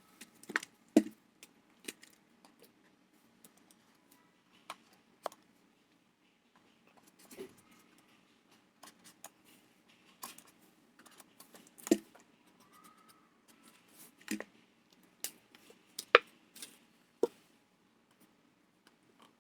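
Hands-on craft work with scissors and plastic waste material: scattered sharp clicks and snips over a faint low hum, the loudest about 1, 12 and 16 seconds in.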